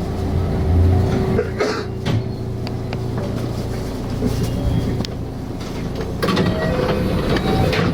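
Cabin sound of a JR West 207 series electric commuter train: a steady low rumble and hum, with a steady tone over the first half and scattered clicks and short hisses.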